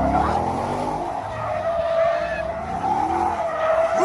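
Car tires squealing continuously under wheelspin: a steady high screech that wavers slightly in pitch, with the engine revving up and down beneath it.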